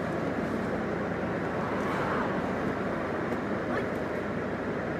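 Steady vehicle and street noise, with faint voices in the background.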